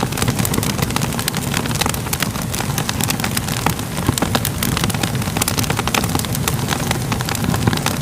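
Fire crackling: a dense, irregular run of pops and snaps over a steady low rumble.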